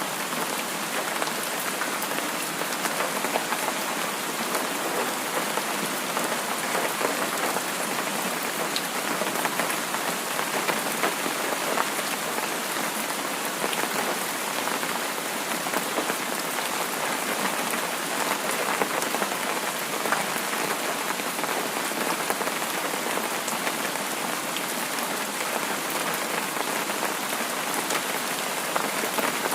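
Steady rain falling on a surface, a dense even patter of many small drops that neither swells nor fades.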